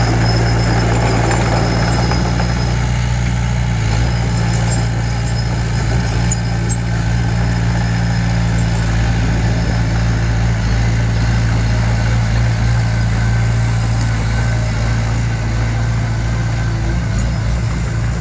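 Diesel engine of heavy construction equipment running steadily with a low, even drone.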